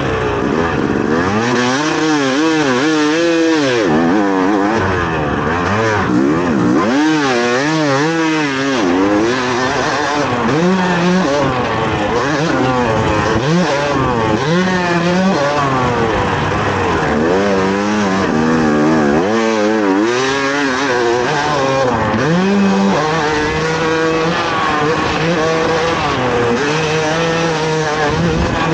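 Dirt bike engine revving hard, its pitch rising and falling over and over as the throttle is worked over jumps, then holding a steadier note near the end.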